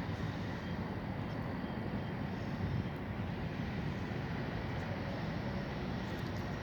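Steady low rumble of a CSX maintenance-of-way train running by on the track.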